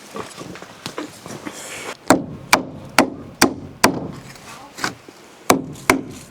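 Hammer blows on wood, about two a second: a run of five sharp strikes, a short pause, then two or three more.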